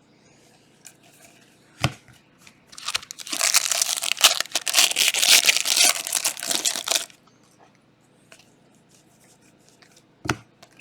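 Plastic trading card pack wrapper being torn open and crinkled for about four seconds, with a single sharp tap before it and another near the end.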